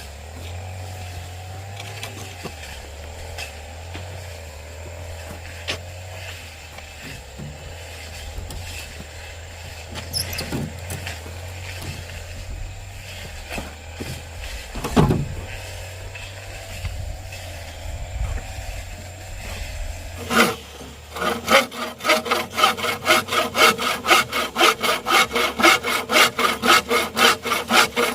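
A saw cutting through wood by hand in steady back-and-forth strokes, about three or four a second, starting near the end. Before that there is a low steady rumble with scattered knocks.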